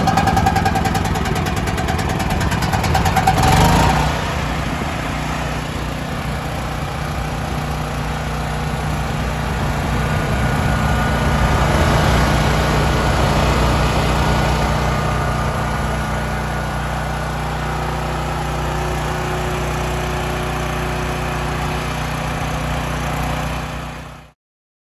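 Champion portable generator's gasoline engine running steadily, having just fired up on its electric start button. It cuts off suddenly near the end.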